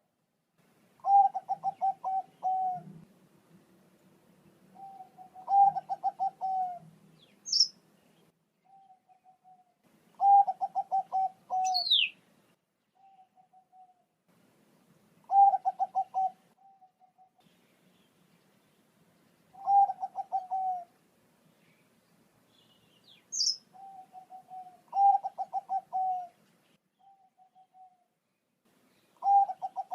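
Zebra dove (perkutut, Bangkok type) cooing song, repeated about every four to five seconds. Each phrase is a quick stuttering run of notes that ends in a drawn-out coo, with softer short coos in between. A few brief high chirps come through, one of them a falling whistle.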